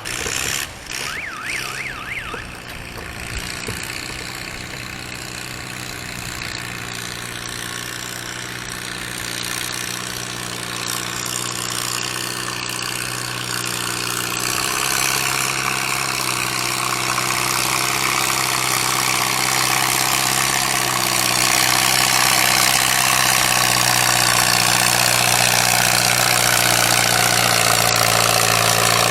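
Antique gasoline farm tractor engine running steadily and growing gradually louder over about twenty seconds, then holding at full volume.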